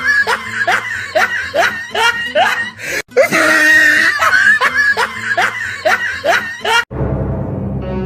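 A burst of laughter, quick repeated rising syllables, over background music. The same few seconds play twice, cut together about three seconds in. Near the end it cuts to ominous music with a low drone.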